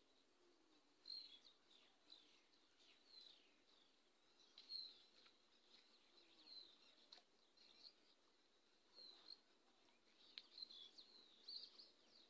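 Faint birds chirping: short, high, downward-sliding calls, a couple a second at irregular intervals, over quiet rural background.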